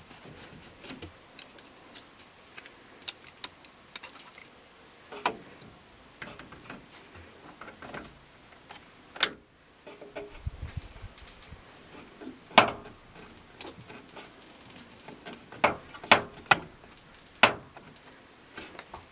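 Hand work on a washing machine's drain pump and hose fittings: scattered clicks and knocks of tools and plastic parts, with a few sharp knocks in the second half.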